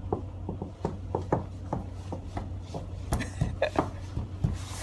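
Knuckles knocking on a cruise ship cabin door, a long run of quick knocks in an uneven, patterned rhythm, with a steady low hum underneath.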